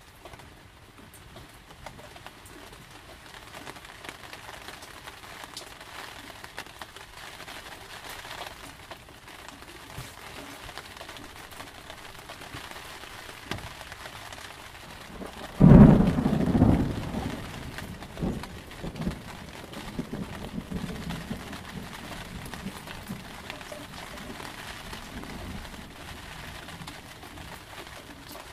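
Steady rain falling, with a sudden loud thunderclap about halfway through that rumbles away over a couple of seconds, followed by a smaller rumble.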